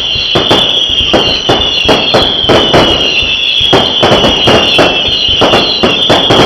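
Firework display: rapid loud bangs, several a second, over a continuous high-pitched whistle that slowly drops in pitch.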